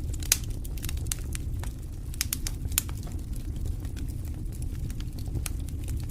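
Campfire crackling: irregular sharp snaps and pops of burning wood over a steady low rumble, with a louder pop about a third of a second in.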